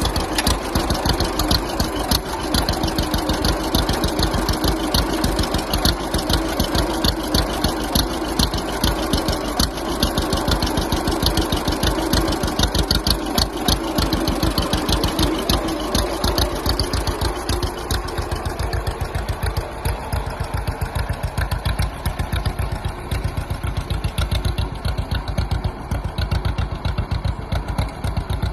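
1939 John Deere Model B's two-cylinder engine running at part throttle, its rapid, even firing popping through the exhaust. The sound turns a little softer and less sharp about two-thirds of the way through.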